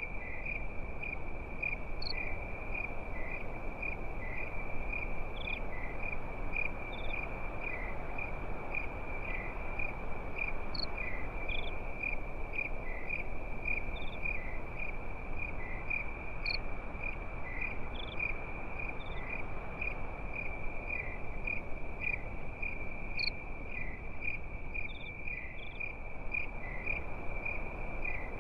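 Crickets chirping in a steady, evenly pulsing high trill, with a soft even rushing noise underneath.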